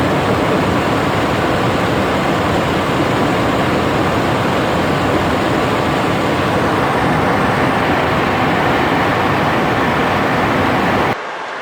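Cessna Citation XLS business jet running, a loud, steady rushing noise with no clear pitch that cuts off abruptly near the end.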